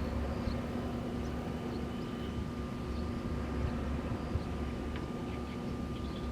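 Wind blowing steadily with a low rumble, under a constant mechanical hum from wind turbines turning. A few faint short chirps come and go.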